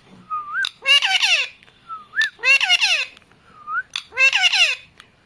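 Pet parrot calling three times in a row. Each call is a short rising whistle followed by a burst of harsh squawks that slide down in pitch.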